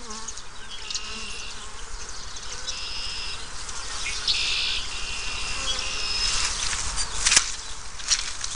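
Honeybees buzzing around an opened hive, with short held whining tones as bees pass close. There is a sharp click about seven seconds in, and more clicks near the end.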